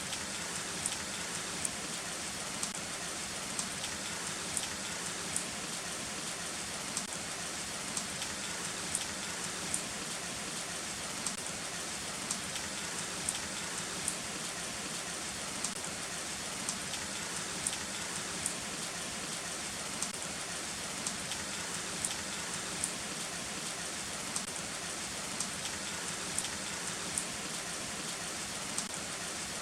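Heavy rain falling steadily: a dense, even hiss with frequent sharp ticks of single drops striking close by.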